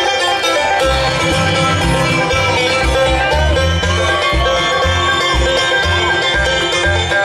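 Live bluegrass band playing an instrumental passage, with banjo and guitar picking over a steady bass beat.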